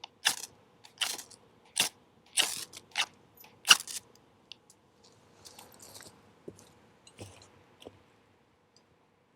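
Wood fire crackling and popping: a run of loud sharp pops about every 0.7 s over the first four seconds, then fainter, sparser crackles.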